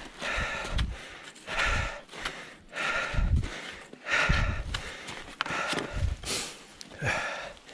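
Cross-country skier breathing hard and loudly, about one breath a second.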